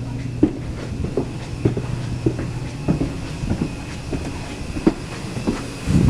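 Steady low machinery hum with a regular knocking about twice a second, rising and falling a little in strength.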